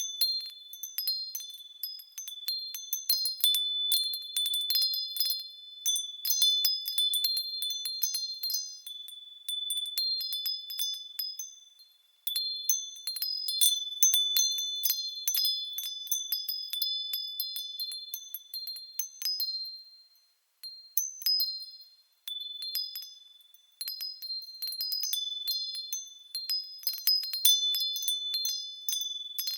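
Japanese furin wind chimes tinkling irregularly as the wind moves them, several high, clear tones ringing over one another. They fall quiet briefly about twelve seconds in and again a little after twenty seconds.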